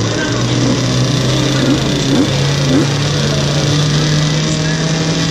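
Several small motorcycle engines revving in short, repeated throttle blips on a start line, over the steady idle of a nearby motorcycle engine that rises slightly about two seconds in.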